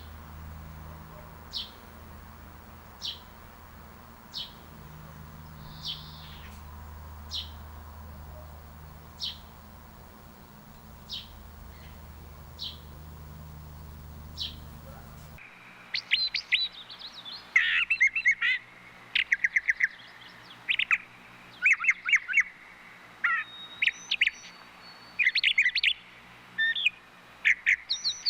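Bird calls: a single short, high, falling chirp repeated about every second and a half. About fifteen seconds in it switches abruptly to a busier, louder bird song of rapid trills and chattering notes.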